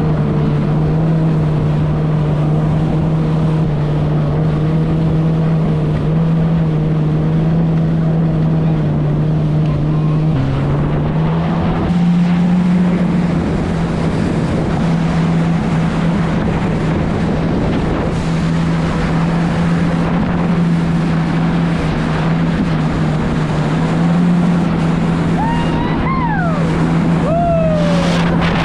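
Jet ski's four-stroke engine (2018 Yamaha FX HO) running at a steady cruising speed, its pitch stepping up slightly about ten seconds in, with wind and water noise on the microphone. A few brief falling high-pitched sounds come near the end.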